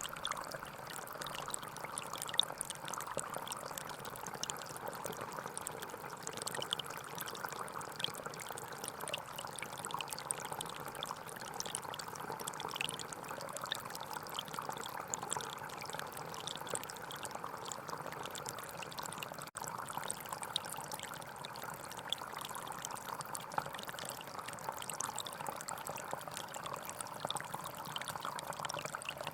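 Gentle forest stream flowing steadily, a constant babble of running water with small splashes and drips throughout. There is a split-second gap in the sound about twenty seconds in.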